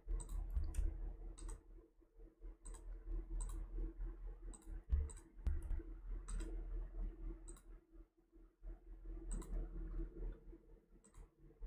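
Computer mouse clicking, scattered irregular single clicks, over a low steady hum.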